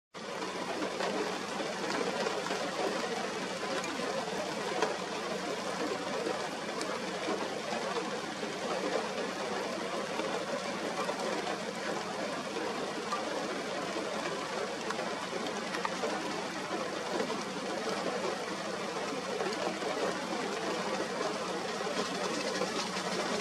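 Steady rain falling: an even hiss of drops that holds without a break.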